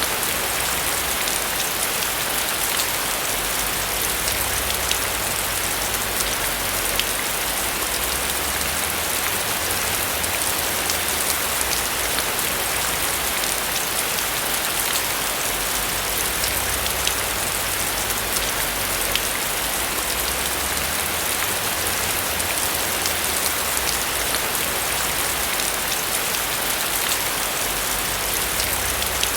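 Steady heavy rain drumming on a roof, a dense hiss of many drops with small individual drop ticks and a low rumble beneath.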